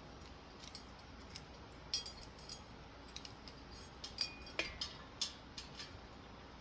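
Metal ceiling-fan parts, the canopy and downrod, being handled: scattered light clicks and clinks, with a few sharper knocks from about two seconds in and a brief ring in the middle.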